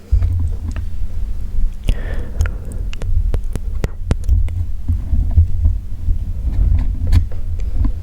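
Close-miked wet mouth sounds: sharp tongue clicks and lip smacks, many in quick succession in the middle, over a heavy, pulsing low rumble.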